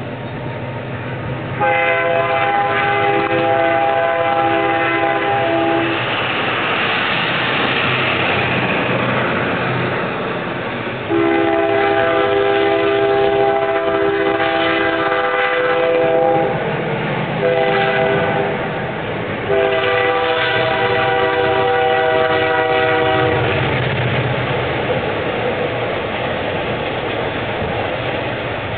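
Locomotive air horn sounding a chord of several notes in the grade-crossing pattern, long, long, short, long, over the steady rumble of the running train.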